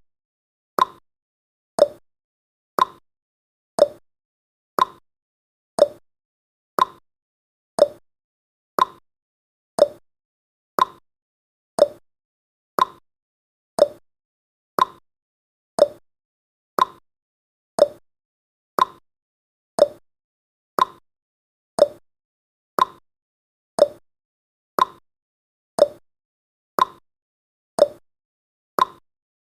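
Countdown timer's ticking sound effect: a short, sharp tick about once a second, evenly spaced.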